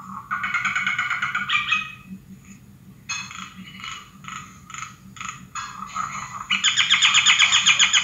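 Several birds chattering in fast trilling bursts, loudest about half a second in and again over the last second and a half, with shorter separate calls between.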